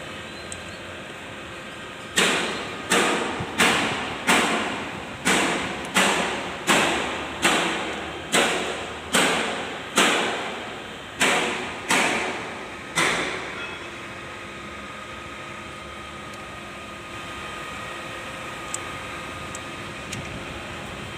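Hammer striking metal: about fourteen sharp blows, a little over one a second, each ringing briefly before the next, then they stop about two-thirds of the way through.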